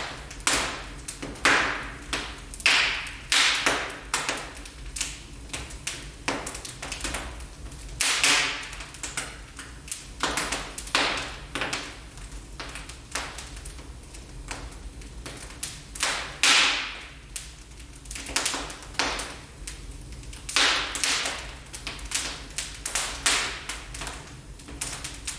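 Wood fire burning in a fireplace, crackling with irregular sharp pops and snaps, several a second. A few louder snaps trail off in a brief hiss, over a faint steady low rumble.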